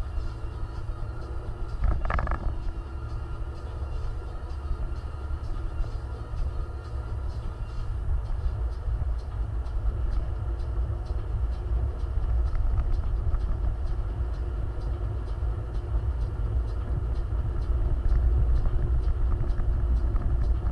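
Off-road vehicle driving, a steady low rumble, with a brief higher-pitched sound about two seconds in.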